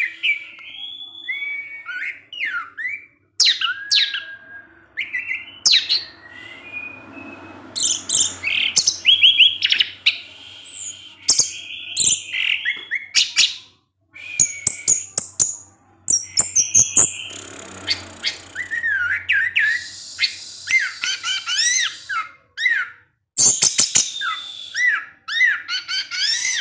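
Orange-headed thrush singing a long, varied song of whistled, sliding phrases and rapid trills, broken by short pauses.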